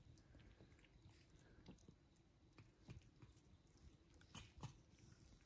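A cat chewing: faint, irregular soft clicks and crunches, a few louder ones past the middle.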